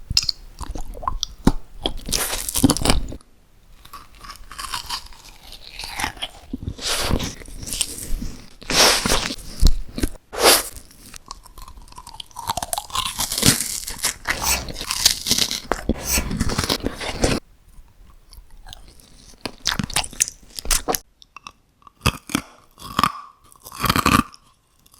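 Close-miked eating: crunchy bites and chewing in quick, irregular succession, with a few short pauses between mouthfuls.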